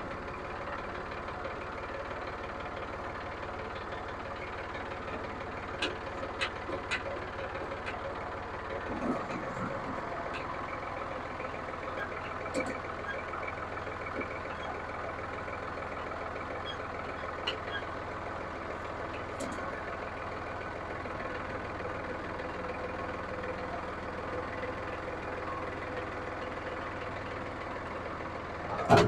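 John Deere 5303 tractor's diesel engine running steadily, its low note shifting about nine seconds in, with a few light clicks and a loud thump near the end.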